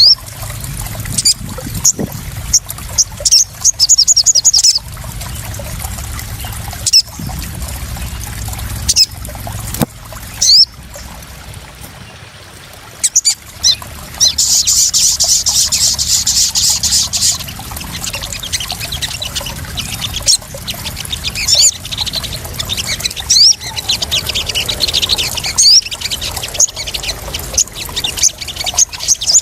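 Steady splashing, trickling water with a small songbird's high chirps and fast trills over it. The densest, loudest trill comes about halfway through, and the water dies down for a few seconds just before it.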